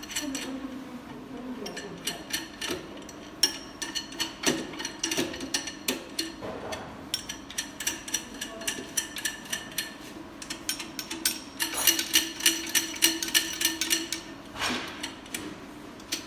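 Metallic clicking and ratcheting from hand work on an IV bag film welding machine, in quick runs of several clicks a second, over a steady machine hum.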